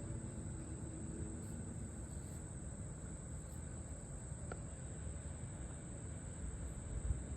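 Chorus of crickets or similar insects trilling, a steady high-pitched drone, over a low rumble, with one faint click about halfway through.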